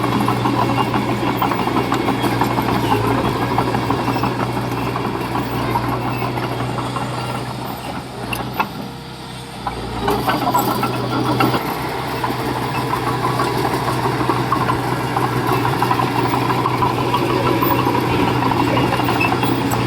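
Diesel engine of earth-moving machinery running steadily with a constant hum. It eases off briefly about eight seconds in, with a knock or two, then picks back up.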